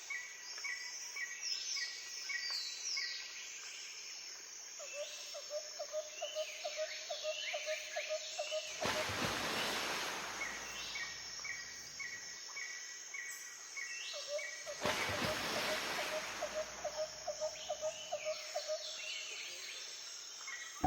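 Outdoor ambience of birds singing: repeated short chirps and downward-sliding whistles, with a lower pulsed trill heard twice. Two rushes of noise, each a few seconds long, come in near the middle and again later.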